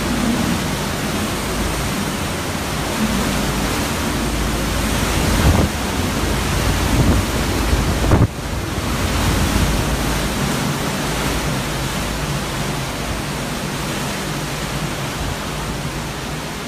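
Hurricane Irma's eyewall winds blowing at hurricane force, around 180 to 190 miles an hour in the gusts: a loud, continuous rush of wind. It swells in gusts partway through, then drops off suddenly for a moment before building again.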